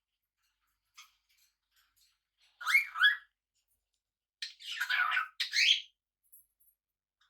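Pet parrot calling: two short chirps in quick succession, then two longer, harsher squawks about two seconds later.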